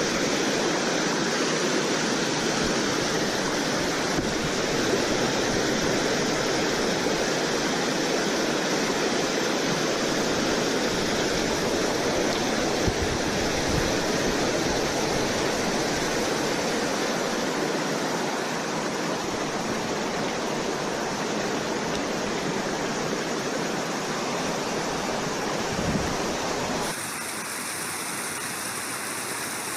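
Steady rush of flowing river water, a dense even hiss. About 27 seconds in it drops abruptly to a quieter, thinner rush.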